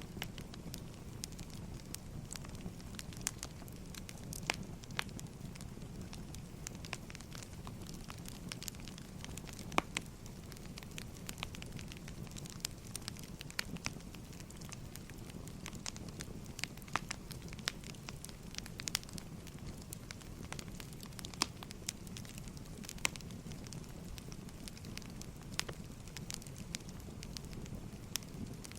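Wood fire crackling: a steady low rumble with irregular sharp pops and snaps, several a second at times.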